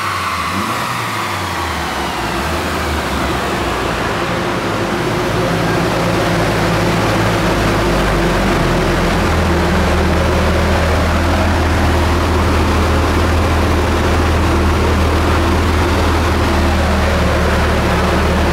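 Turbocharged four-cylinder of a tuned Mitsubishi Lancer Evolution IX with an HTA35 turbo, coming down off a rev: whining tones fall away over the first few seconds, then the engine settles into a loud, steady low drone.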